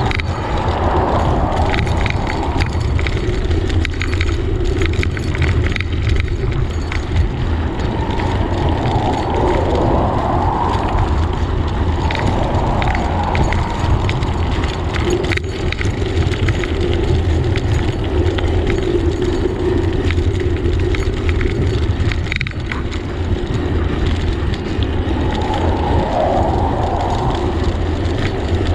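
Wind rushing over a GoPro's microphone on a moving bicycle, with steady tyre and road noise. Two sharp clicks or knocks fall about halfway through and a little later.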